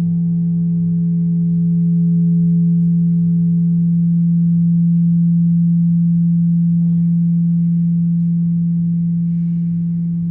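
A single low ringing tone held steadily, with fainter higher overtones above it, slowly fading toward the end.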